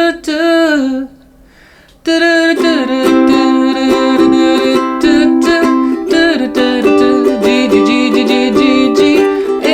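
Ukulele strumming chords in a steady rhythm. It starts about two seconds in, after a brief voice and a short pause.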